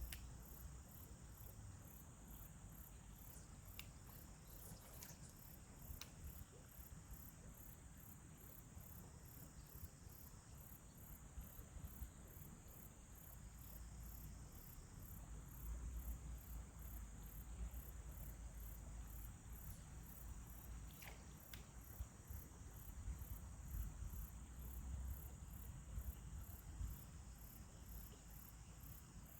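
Faint, high-pitched insect chirping in evenly repeated pulses over a steady high hum, typical of crickets, with a low rumble underneath.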